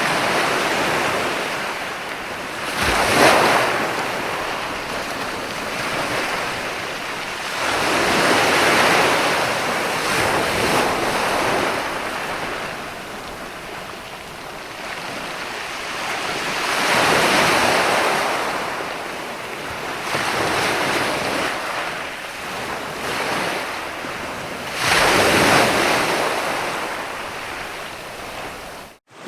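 Ocean surf: waves break and wash in as four swelling surges several seconds apart, with a steady hiss of water between them. The sound drops out abruptly for a moment just before the end.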